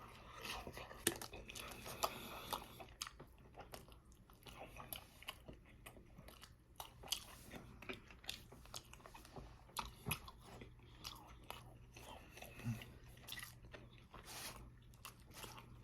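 Close-miked chewing of a mouthful of Wendy's Baconator bacon cheeseburger: faint, irregular wet clicks and small crunches.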